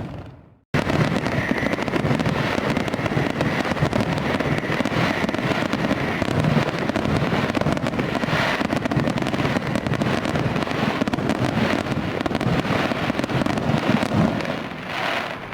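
Fireworks going off in a dense, continuous crackle that cuts in abruptly just under a second in after a moment of silence, easing off near the end.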